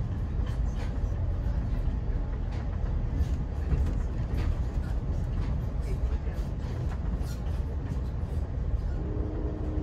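Amtrak passenger train heard from inside the car while under way: a steady low rumble of the running train with light scattered clicks and rattles. Near the end a held tone with several steady pitches comes in over the rumble.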